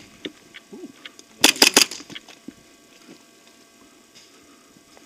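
Airsoft gun firing a quick burst of about five shots about a second and a half in, with a few fainter clicks around it.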